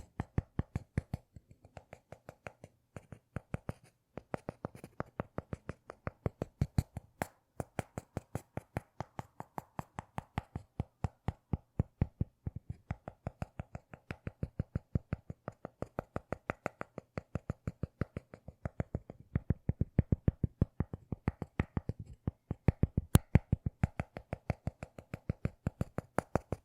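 A rapid, steady series of short sharp clicks, about four to five a second, made as an ASMR trigger.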